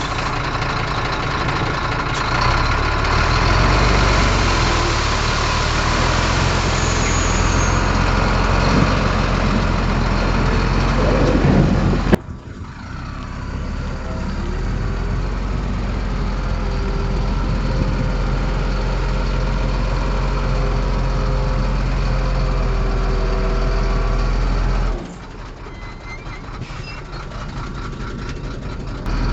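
Heavy diesel engines of a Komatsu bulldozer and a dump truck running under work. The sound breaks off sharply about twelve seconds in and changes again later, dropping quieter for a few seconds near the end.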